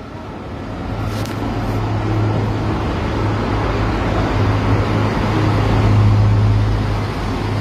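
Class 171 Turbostar diesel multiple unit pulling away, its underfloor diesel engines giving a steady low hum over the rumble of the train. The sound builds for the first few seconds and eases slightly near the end.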